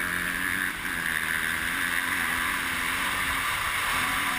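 Off-road vehicle engines running at a fairly steady pitch, with a steady hiss above them.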